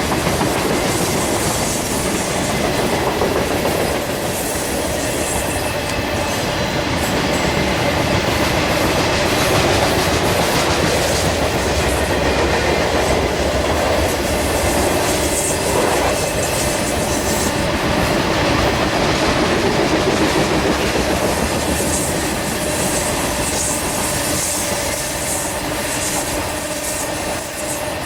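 Coal train's hopper cars rolling past, steel wheels clacking over rail joints in a steady, continuous rumble, with a faint thin squeal from the wheels.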